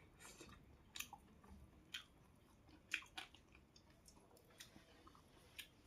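A person chewing food close to the microphone, faint, with a few short crisp mouth clicks and crunches about once a second.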